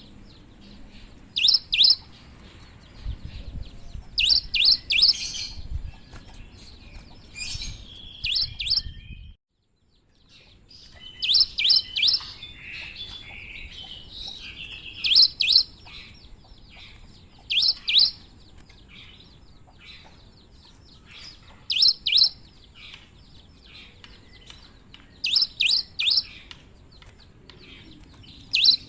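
Cinereous tit (gelatik batu) singing: loud groups of two or three sharp, high notes repeated every few seconds, with softer twittering between them. The sound cuts out completely for about half a second around nine seconds in.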